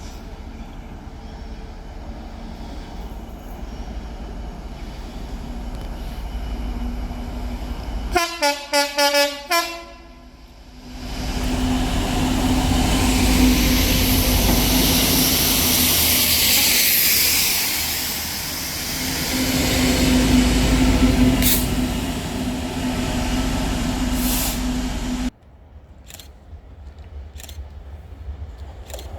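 A train sounds its horn in a quick series of short blasts about eight seconds in, then passes loudly for about fourteen seconds before the sound cuts off abruptly.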